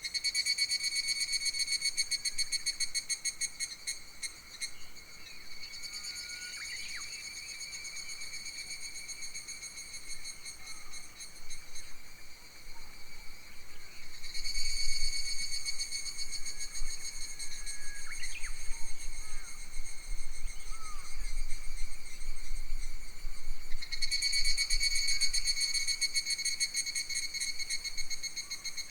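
Cicadas singing, a fast, pulsing, high-pitched buzz that swells strongly at the start, dies back for several seconds and returns loud about halfway through. A few short bird chirps break in, and a low rumble of wind runs in the middle stretch.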